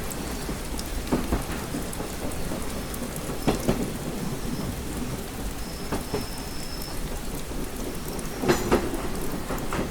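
Steady rain pattering on a train window, over a low rumble, with short sharp taps here and there, two louder ones close together near the end.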